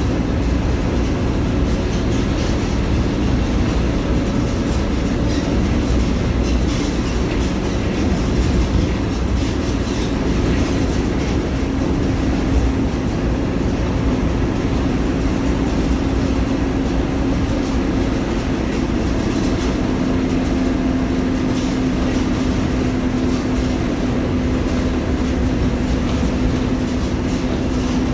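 Diesel engine of a Mercedes-Benz OF-1721 BlueTec 5 city bus running under way, a steady drone with road and body noise and a low whine that grows stronger in the second half.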